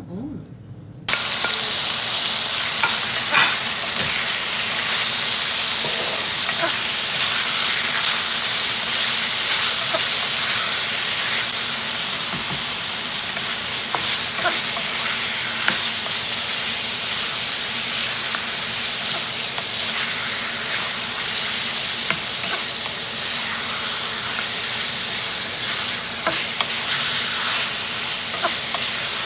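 Food frying in olive oil in a skillet, a loud steady sizzle with scattered small crackles, starting abruptly about a second in.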